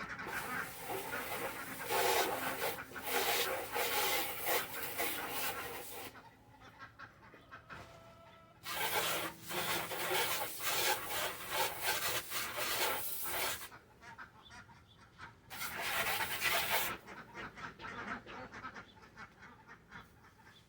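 Chickens and ducks in a backyard pen, with three long stretches of coarse rubbing or scraping noise between quieter gaps.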